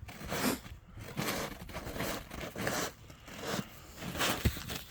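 Crunching and scraping on icy, crusted snow, a string of rough strokes about one or two a second.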